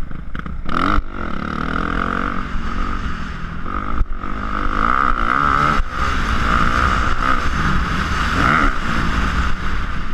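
Motocross dirt bike engine revving up and down over and over, its pitch rising and falling, with a few sharp knocks along the way.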